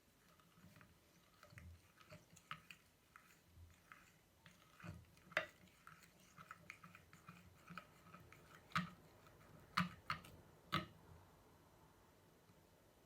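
Crunchy slime being worked by hand: a run of small crackles and clicks, with a few louder pops between about five and eleven seconds in.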